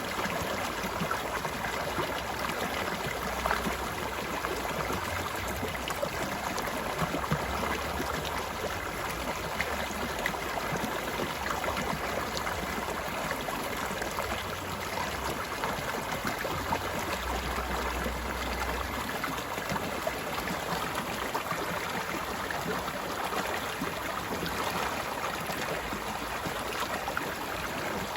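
Mountain stream flowing steadily over rocks, a constant rush of water with fine splashing and gurgling.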